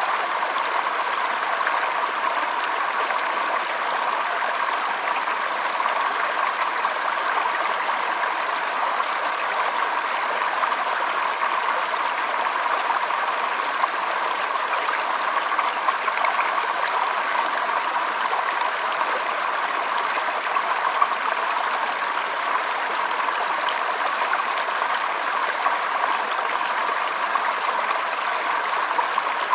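Shallow stream trickling and babbling over stones, a steady rush of water with small splashes.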